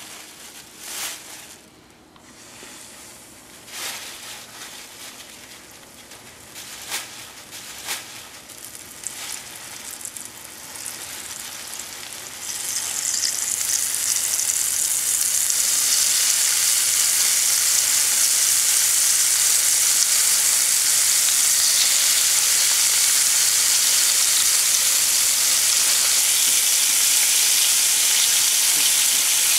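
A few knocks and rustles, then about twelve seconds in a steady, loud sizzle takes over as flour-coated oysters fry in hot oil in a cast-iron skillet.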